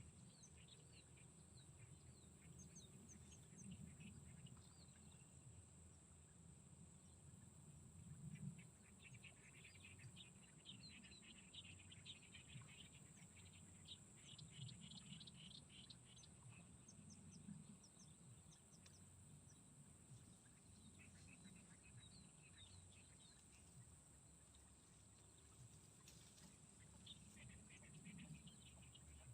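Faint outdoor swamp ambience: scattered bird chirps over a steady, high-pitched insect drone, with a low rumble underneath.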